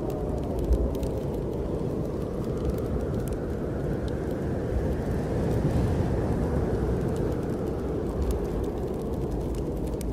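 Low, steady rush of snowstorm wind that swells about halfway through and then eases, with scattered sharp crackles from a wood fire in a fireplace.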